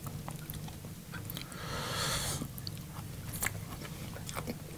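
A person chewing a mouthful of food close to the microphone, with small wet mouth clicks, and a short soft hiss like a breath about two seconds in.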